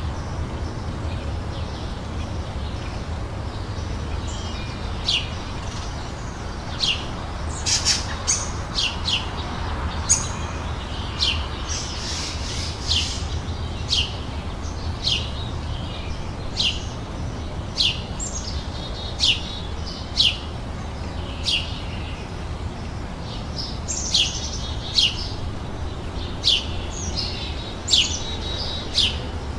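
A songbird calling: short, sharp, high chirps that sweep downward, repeated about once a second, over a steady low background rumble.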